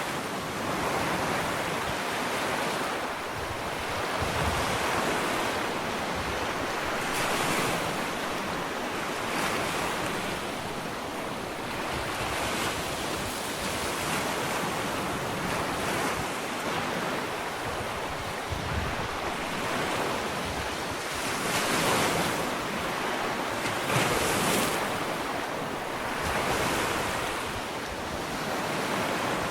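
Ocean waves breaking and washing up a sandy beach, a continuous surf wash that swells and recedes every few seconds.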